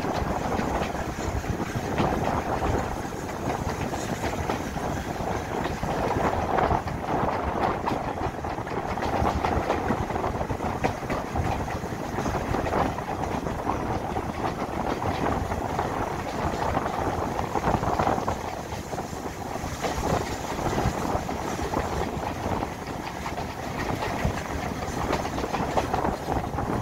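Railway passenger coach running along the track, its wheels clattering steadily over the rails, heard from an open window of the moving train.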